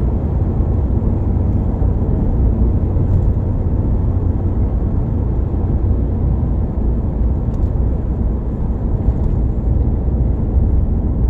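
Steady low road and engine rumble of a moving vehicle heard from inside the cabin, with a few faint clicks.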